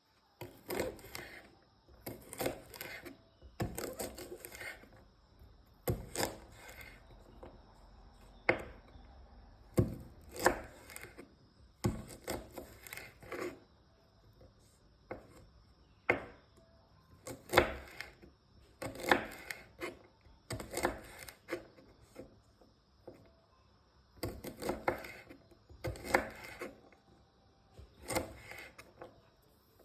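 Beans being cut with a knife: a crisp cut about every one to two seconds, unevenly spaced, with short pauses between.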